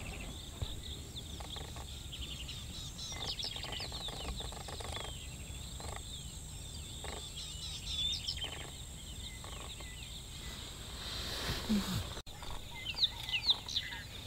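Wild birds calling: many short, high chirps and whistles, with a few louder calls near the end, over a faint low rumble.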